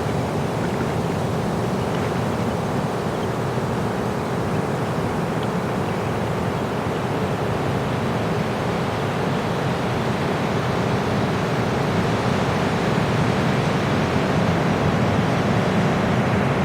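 Ocean surf washing up a beach: a steady rushing wash of waves that grows a little louder near the end.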